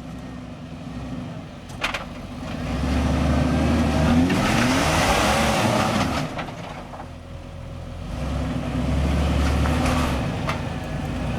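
Jeep Rubicon engine revving under load as it climbs a steep obstacle, its tires spinning for grip. The revs climb about two seconds in, ease off about two-thirds of the way through, and build again near the end.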